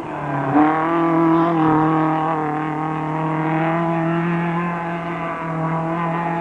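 Race car engine at high revs under hard acceleration, its pitch rising about half a second in and then held nearly steady.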